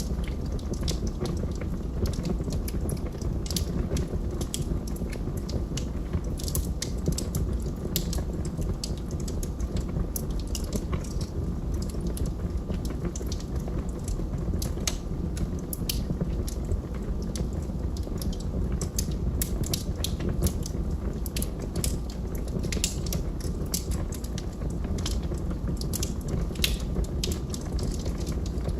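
Log fire crackling: frequent, irregular sharp pops and snaps over a low, steady rumble of burning.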